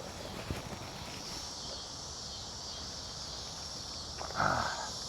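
Steady high-pitched chirring of insects, with a few faint clicks and a short voiced sound, like a breath or 'ahh', about four seconds in.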